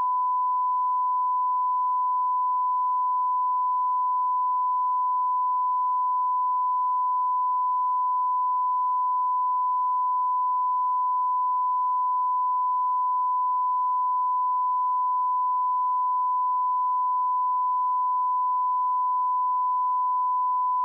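A pure 1001 Hz sine-wave test tone, one steady unbroken pitch at constant level.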